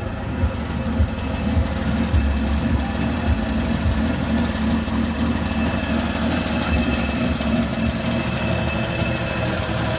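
Chevy 292 inline-six engine running steadily in a 1965 Chevy pickup, on five-year-old gasoline, sounding not bad for it.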